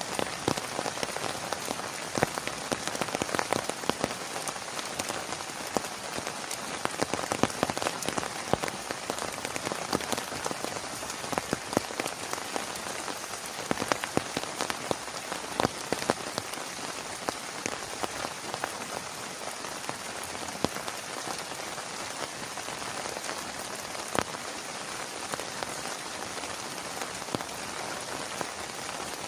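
Heavy rain falling steadily, with many individual drops ticking sharply on a nearby surface.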